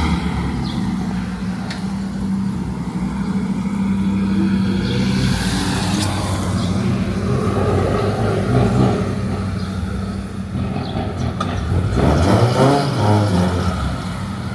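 Car engine running steadily near idle, with the engine pitch rising and falling in the middle and again near the end as it is revved or driven off.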